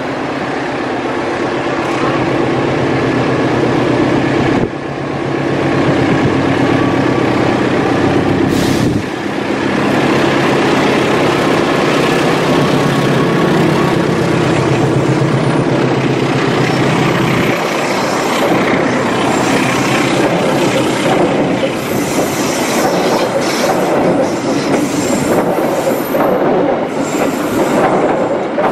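A CC 206 diesel-electric locomotive passes close by with its engine running steadily. About two-thirds of the way in the engine sound fades, and the passenger coaches roll past with their wheels clacking over the rail joints.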